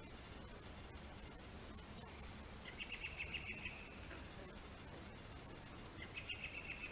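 Faint outdoor quiet broken twice by a small bird's fast, high trill: once about three seconds in, lasting about a second, and again near the end.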